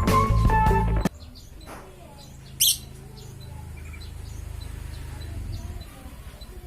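Lovebirds chirping: scattered short high calls with one loud, shrill call about two and a half seconds in, over a faint low hum. A loud tonal sound fills the first second before cutting off.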